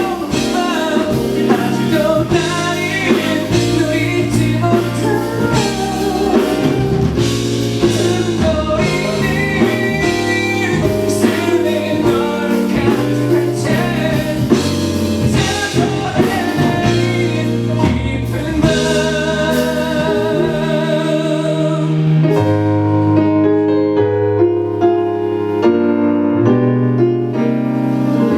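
Live band playing a pop ballad with a male lead vocalist singing, notes held with vibrato, over drums and accompaniment. About three quarters of the way through, the drums drop out and the accompaniment thins.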